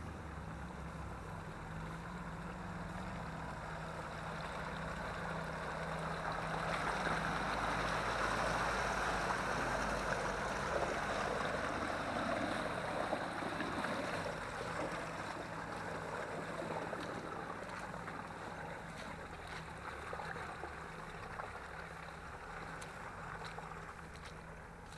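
Off-road 4x4 engine running steadily while wading through water, with a splashing rush that swells through the middle seconds and then eases.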